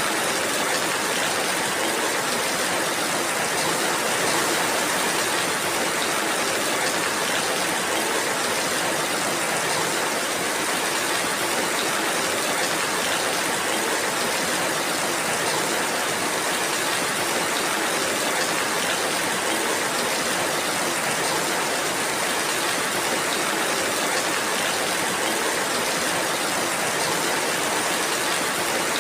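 Steady rainfall: an even, unbroken hiss with faint scattered drop ticks.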